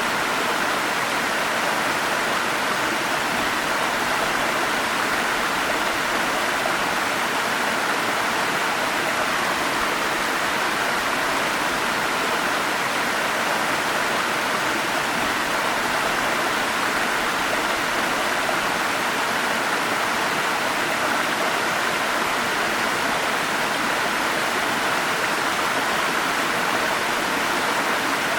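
Forest stream water rushing and splashing over falls, a steady, unbroken sound.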